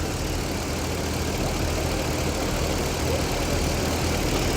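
2013 Chevrolet Caprice engine idling steadily with a misfire on cylinder 4, which the mechanic puts down with full certainty to a worn camshaft lobe and a collapsed lifter on that cylinder.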